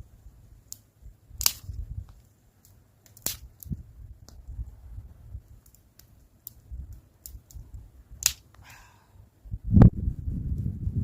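A series of sharp snaps and clicks at irregular intervals, about seven spread over several seconds, over low dull thuds. The loudest snap comes near the end, followed by heavier thudding.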